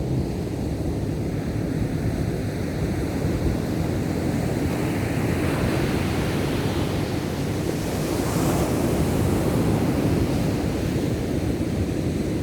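Ocean surf washing in, with one wave building and breaking about two-thirds of the way through.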